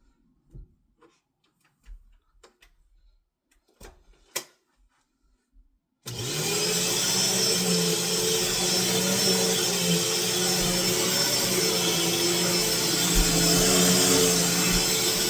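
A few faint clicks and knocks, then about six seconds in a Eureka LightSpeed 4750A upright vacuum cleaner switches on and its motor runs steadily, a loud rushing hum with a steady low drone.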